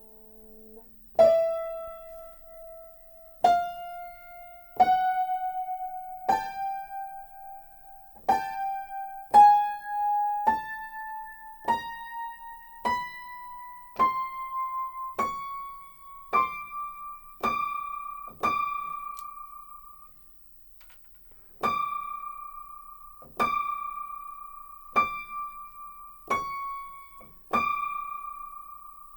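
Aldrich spinet piano keys struck one at a time, each note ringing out and fading. They climb stepwise up the upper-middle register, then one high note is played again and again, with a short pause partway through. The notes are being checked for tuning, and the owner finds some of them way off.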